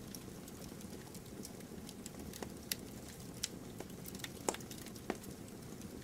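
Bonfire burning: a steady low rush of flame with scattered sharp crackles and pops from the burning wood, the loudest pop about four and a half seconds in.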